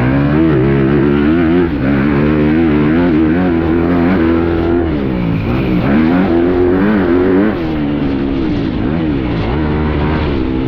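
Yamaha YZ450F four-stroke single-cylinder motocross engine, heard from on the bike, revving up and down as it is ridden around a dirt track, with short throttle drops about a second and a half in and again near eight seconds.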